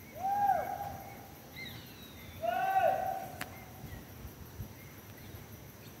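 Wild birds calling: two long, hollow, hoot-like whistled notes about two seconds apart, with fainter higher chirps around them. A single sharp click comes a little past halfway.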